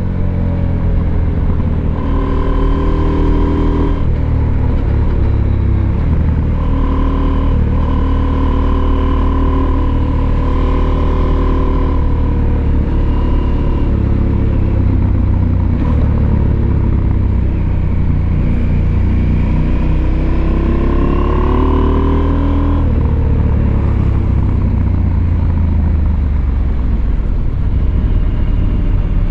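Husqvarna Norden 901's parallel-twin engine running under way at road speed, heard from the rider's seat. The engine note holds steady for stretches with small steps in pitch, then falls and climbs again about two-thirds of the way through.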